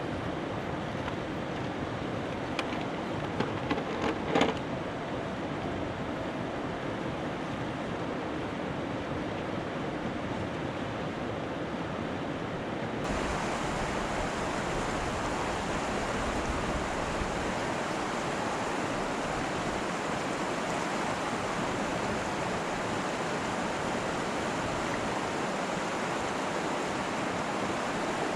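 Steady rushing noise, with a few short knocks about three to four seconds in. About halfway through, the noise abruptly becomes louder and brighter.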